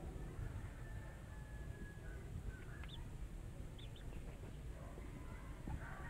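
A few faint, short, high bird chirps, about three and four seconds in, over a low steady background rumble.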